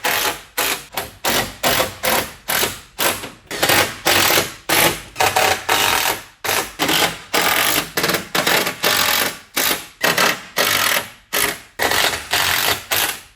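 Workshop tool noise: a rapid series of short, sharp mechanical bursts, about two a second, that stops abruptly at the end.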